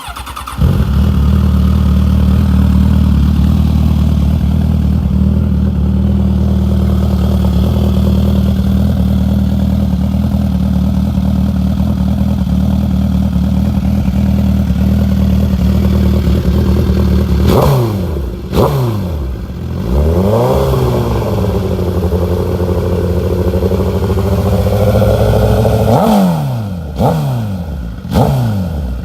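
2015 Suzuki GSX-R1000's inline-four engine, breathing through a Two Brothers full exhaust system, starting and then idling steadily. In the last dozen seconds it is revved in several quick throttle blips, one held at raised revs for about four seconds.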